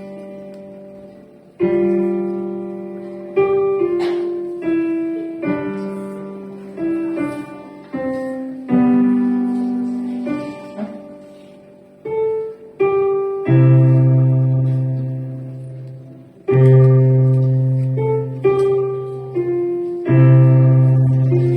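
Piano played solo: a simple melody of struck notes, each fading after it is played, with low bass notes joining about two-thirds of the way through.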